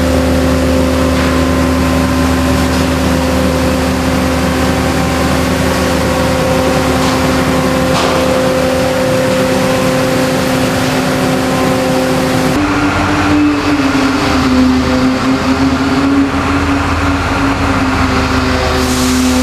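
Heavy machinery of a rail tunnel-cleaning train running with a steady hum over loud noise; about twelve seconds in the sound changes abruptly to a slightly higher, wavering hum.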